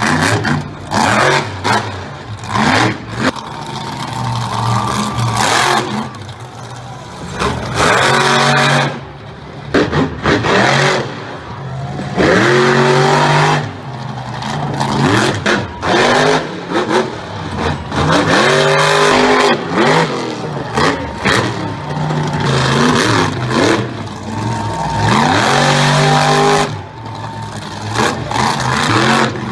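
Monster truck engine revving hard in repeated bursts of throttle, its pitch climbing and dropping again and again.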